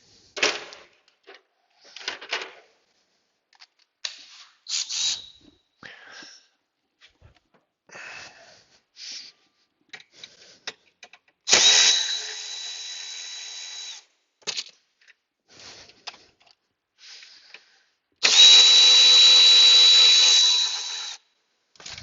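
Cordless drill running in two bursts of about two to three seconds each, with a steady high whine, backing out small hex-head dash screws. Clicks and rattles of the tool being handled come between the runs.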